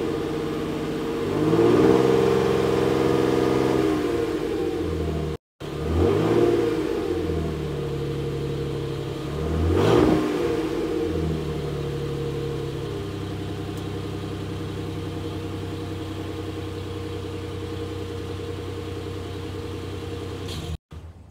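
2018 Nissan Frontier Pro-4X's 4.0-litre V6 running through its stock exhaust and muffler: revved up and back down three times, then settling to a steady idle.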